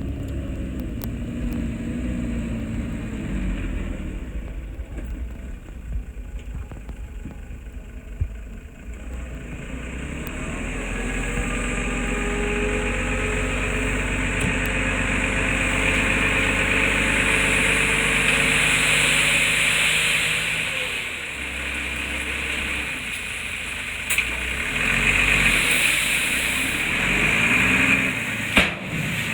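Heavy-equipment diesel engine running. Its revs and loudness rise about ten seconds in and hold for around ten seconds, drop back, then rise again near the end.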